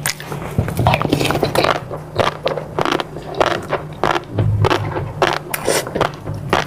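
Close-miked eating sounds: a dense run of wet clicks and crunches from chewing, with a low steady hum underneath.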